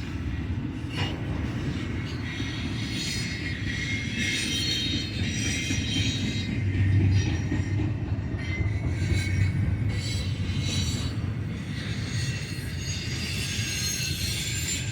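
Freight cars of a long freight train rolling past, a steady low rumble of wheels on rail, with high-pitched wheel squeal wavering over it.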